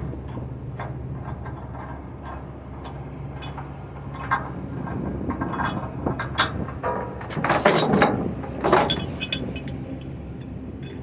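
Steel tie-down chains clinking and rattling as they are unhooked from a trailer, with two louder rattling bursts a little past the middle as a chain is pulled loose. A steady low hum runs underneath.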